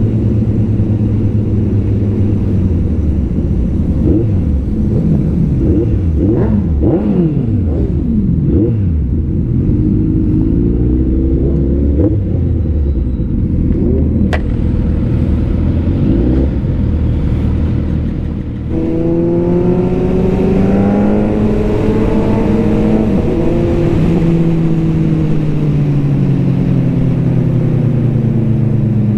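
Superbike engines running together on a group ride. For the first ten seconds several engine notes rise and fall across one another. About 18 seconds in the throttle drops, then one engine rises strongly as it accelerates and eases down near the end.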